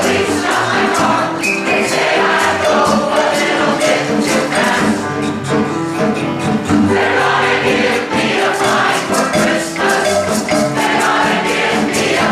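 A group of voices singing a song over instrumental backing, with a steady, even percussion beat.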